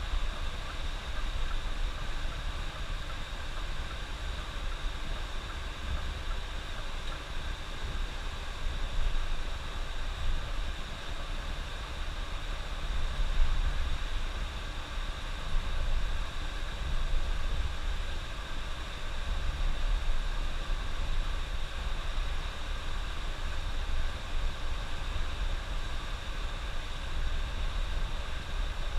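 Coach bus driving on the highway: a steady low engine and road rumble with a constant hiss of tyre and road noise.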